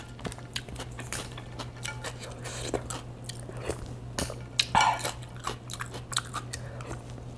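Close-miked chewing of a mouthful of salmon sushi: wet mouth clicks and smacks, over a steady low hum, with one louder mouth sound about five seconds in.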